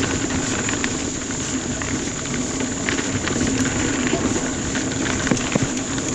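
Mountain bike rolling along a dirt singletrack trail: a steady rush of tyre and wind noise with scattered clicks and rattles, over a steady high-pitched whine.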